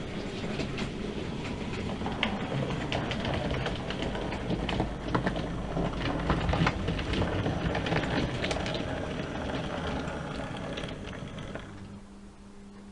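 A train running along the track, its wheels clicking irregularly over the rails, then dying away to a low hum near the end.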